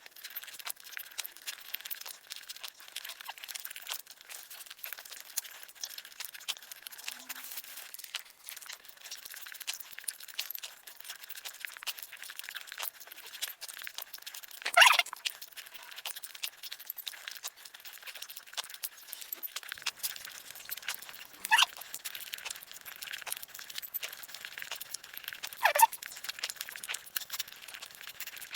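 Close-miked eating sounds: a continuous run of small crackly, clicking chewing noises, with three louder crunches, about halfway through and twice more near the end.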